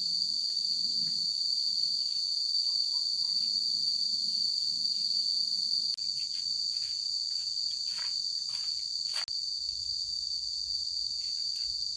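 Steady high-pitched chorus of insects in the fields, unbroken throughout, with a few short clicks and rustles partway through.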